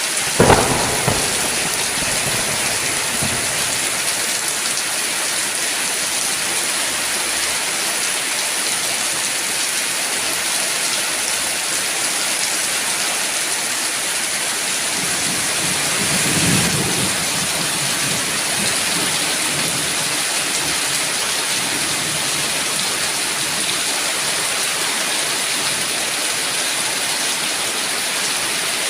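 Steady heavy rain falling, with a sharp clap of thunder about half a second in that rumbles away over a couple of seconds, and a softer low roll of thunder around the middle.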